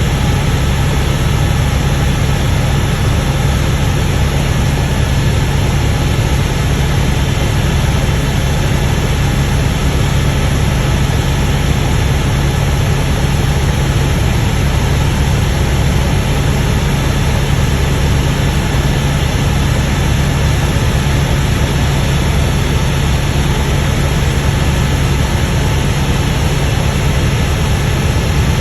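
Helicopter in flight: a loud, steady rotor and engine noise that does not change.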